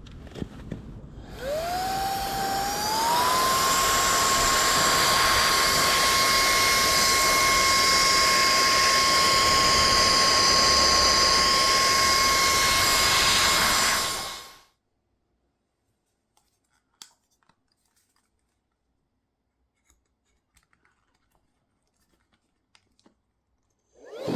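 Cordless 2-in-1 handheld car vacuum and air blower switched on: its motor winds up in two steps to a steady high whine over rushing air, runs for about twelve seconds and cuts off suddenly. A few faint clicks follow, and right at the end the motor starts winding up again.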